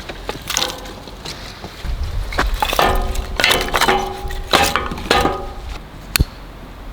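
A run of metal clinks and knocks, several with a brief ringing tone, clustered in the middle, then one sharp click near the end.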